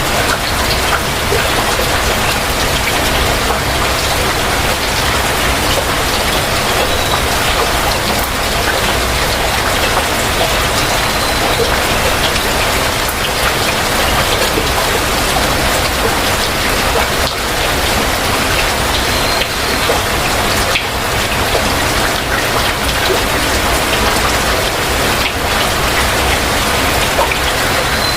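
Heavy rain falling steadily, an even, dense hiss with no let-up.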